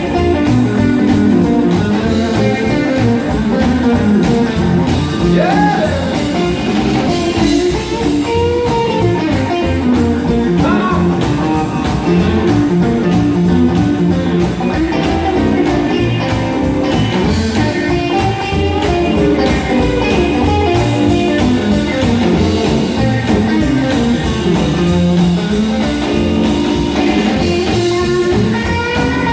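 Live blues-rock band playing an instrumental passage: electric guitar lead with bent notes over rhythm guitar, bass and a steady drum beat.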